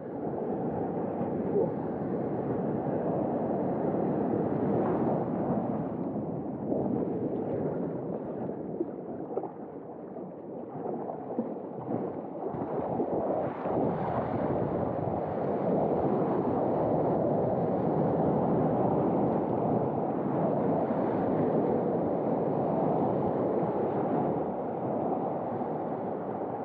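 Surf and water rushing around a waveski in the waves, with wind on the microphone. It is a steady, low rush that dips briefly about ten seconds in.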